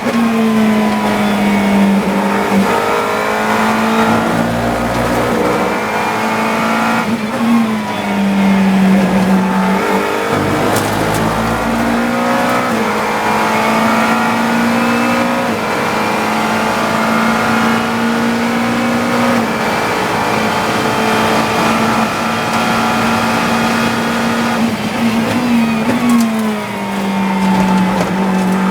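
GT3 race car engine at full throttle, heard from the cockpit, holding high revs down the straights. It drops through the gears a few times with quick rev sweeps as the car brakes for corners.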